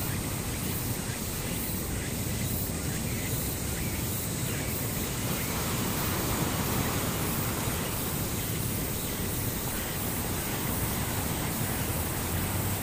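Steady rushing noise with a low rumble, even throughout, with no distinct events.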